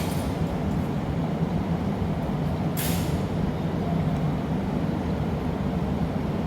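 Steady low roar of a gas-fired glassblowing furnace, with a brief sharp hiss about three seconds in.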